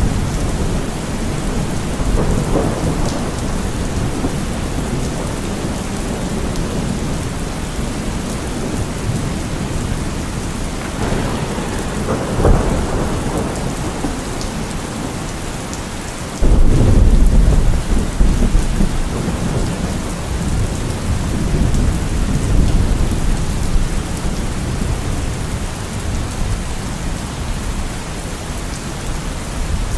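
Steady rain falling through a thunderstorm, with rolling thunder. There is a sharp crack about twelve seconds in, then a sudden loud clap about halfway through whose low rumble carries on for several seconds.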